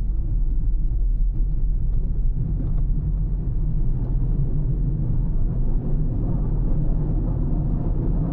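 A car driving along a road: steady low tyre and engine rumble with no distinct events.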